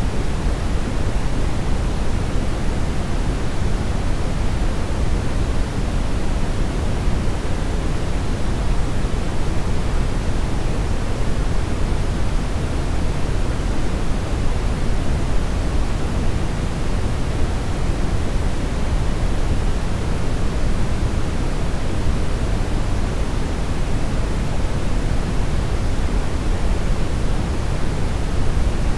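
Steady, unchanging brown noise: a deep, even hiss weighted toward the low end, with no rhythm or events.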